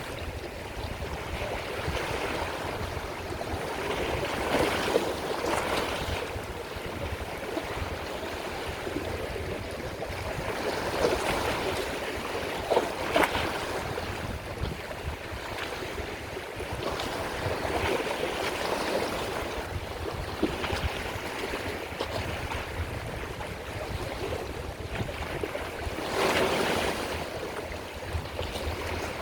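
Sea waves breaking and washing on the shore, the surf swelling and fading every several seconds, with a low wind rumble on the microphone.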